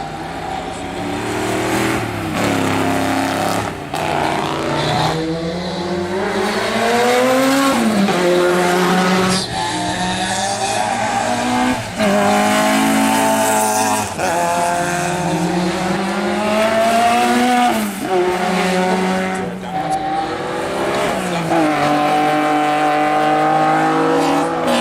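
Classic racing car engines accelerating hard, the revs climbing and dropping back at each upshift, again and again.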